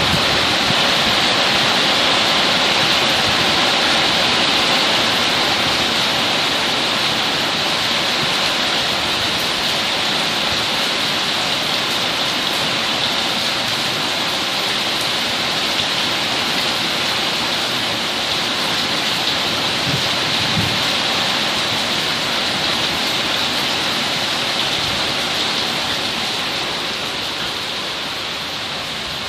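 Heavy rain falling steadily in a thunderstorm, easing slightly in the last few seconds.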